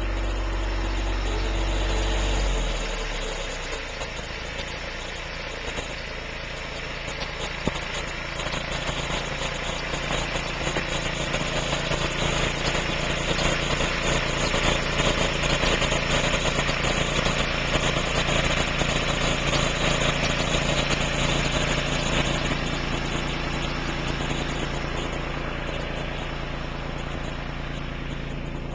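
Small tractor's engine running steadily; its deep low rumble drops away about two and a half seconds in, and the sound grows somewhat louder through the middle.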